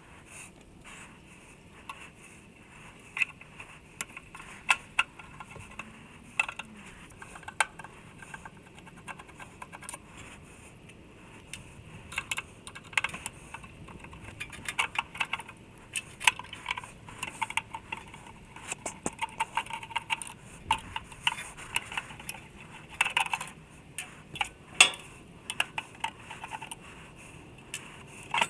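Irregular small metal clicks and clinks of tools and metal parts being handled during hands-on repair work, sparse at first and busier from about halfway through.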